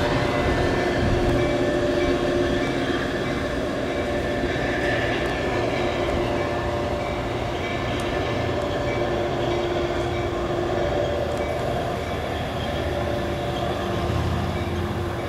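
Diesel-hauled Metra bilevel commuter train running past on jointed track and pulling away, a steady rumble of wheels and cars on the rails slowly fading. A grade-crossing bell dings regularly in the background through the first half.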